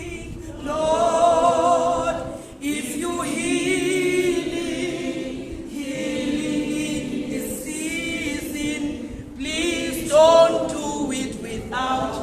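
Voices singing unaccompanied, a church congregation singing a worship chorus together in wavering, sustained phrases.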